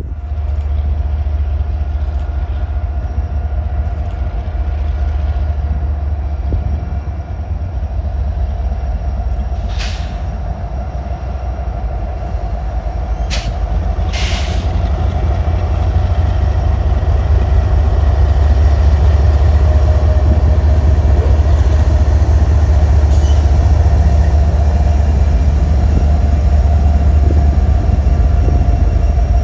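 Freight train rolling slowly past with a steady low rumble and a held mid tone, with a few sharp clanks about a third of the way in; it grows louder in the second half.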